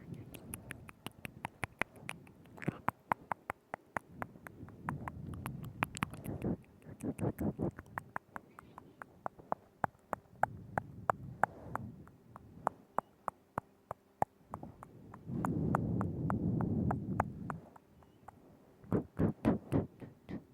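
Close-miked ASMR mouth sounds: quick runs of wet tongue clicks and lip smacks, with soft moist, breathy sounds between them. Late on, a louder breathy stretch lasts about two seconds.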